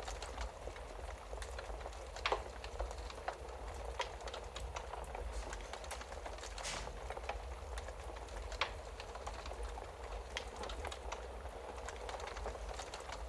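Wood fire crackling in a fireplace: a steady hiss of small crackles with a few sharper pops, over a low steady rumble.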